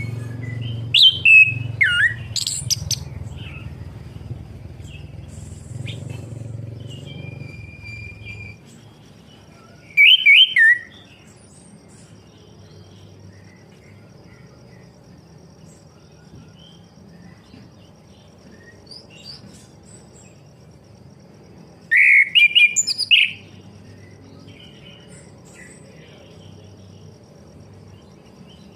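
Chestnut-capped thrush (anis kembang) singing in three short, loud bursts of rapid sweeping and chattering notes: near the start, about ten seconds in and about twenty-two seconds in, with quieter scattered notes between. A low hum underlies the first eight seconds, and a faint steady high tone runs through the later part.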